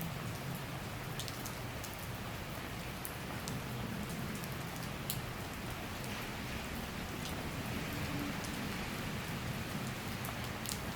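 Steady summer rain shower falling on surfaces, with single drops ticking sharply here and there over the even hiss.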